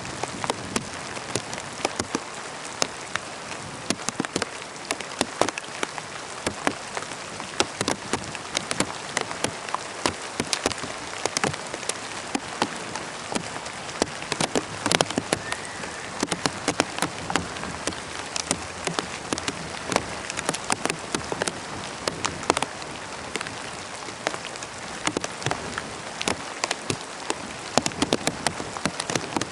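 Steady rain falling, with many individual drops pattering close by on a hard surface.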